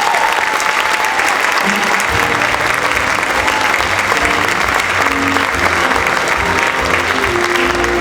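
Theatre audience applauding loudly at the end of a song, with instrumental music coming in underneath from about two seconds in.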